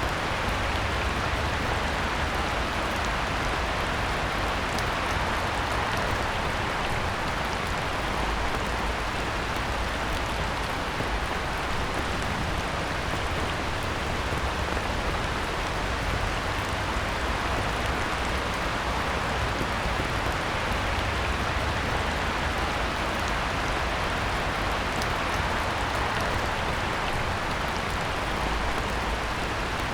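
Heavy rain falling steadily onto a pond's surface: an even, unbroken hiss with fine drop patter in it.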